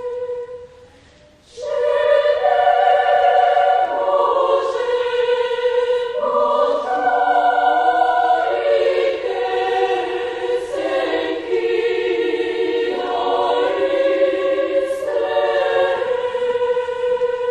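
Children's choir singing a Bulgarian folk-song arrangement in several parts, unaccompanied. A held note fades out, then after a brief pause about a second and a half in, the voices come in together on long sustained chords.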